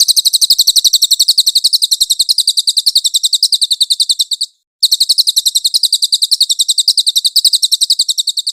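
Cililin songbird singing a fast, even trill of high, clear notes in two long phrases, with a short break about four and a half seconds in.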